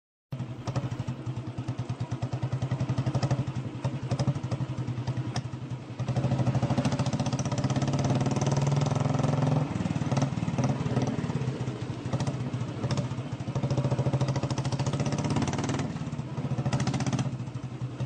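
Royal Enfield Bullet motorcycle engine running with a rapid, even exhaust beat, its loudness rising and falling a few times.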